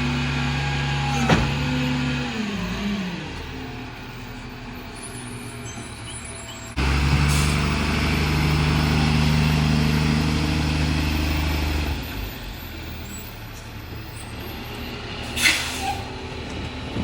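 Freightliner garbage truck's diesel engine running at raised speed, then winding down to idle about two seconds in. It jumps back up to a steady high speed about seven seconds in for roughly five seconds, then drops to idle again, the pattern of the Heil rear loader's packer cycling. A short, sharp air hiss comes near the end.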